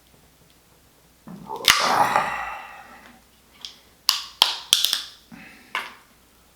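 Lobster shell being cracked and broken apart by hand: a crunching stretch, then several sharp cracks and snaps in quick succession.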